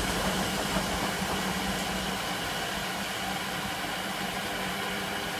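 Electra AWF683 front-loading washing machine winding down from an 800 rpm spin: the motor and drum run with a steady hum while the deep rumble fades away over the first few seconds.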